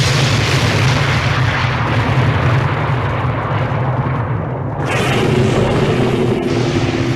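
Explosion sound effects: a loud, continuous rumbling blast, with a fresh burst breaking in about five seconds in.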